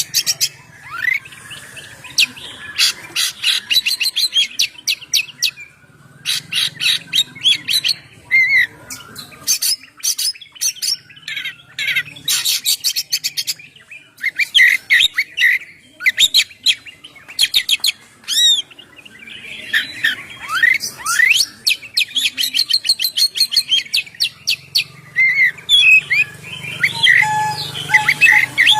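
Oriental magpie-robin (kacer) singing continuously and loudly, a long varied song of fast rattling trills mixed with slurred whistled notes, with only short breaks.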